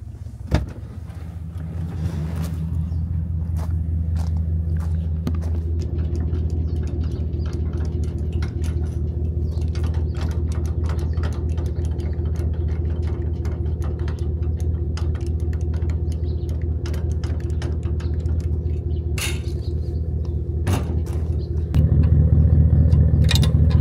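A heavy machine's engine running steadily. It picks up about two seconds in and gets louder near the end, with scattered clicks and knocks over it and one sharp knock shortly after the start.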